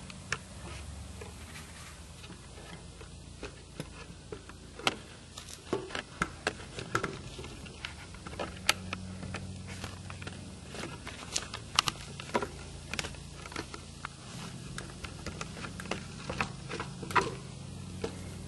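Irregular clicks, taps and knocks of a tripod being handled and fitted onto a wagon's frame, over a steady low hum.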